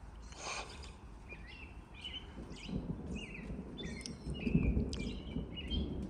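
Small birds chirping over and over, short high notes repeated every half second or so. A low rumble swells about halfway through and eases off toward the end.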